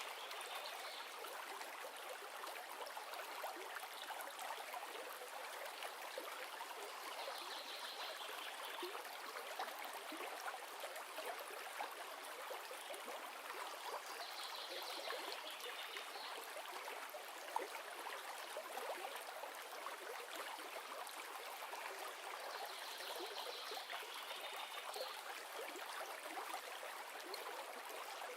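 River water flowing steadily, an even rushing sound. A brief high-pitched sound recurs about four times over it.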